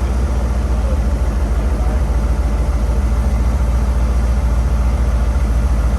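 A car engine idling with a steady, low, even rumble.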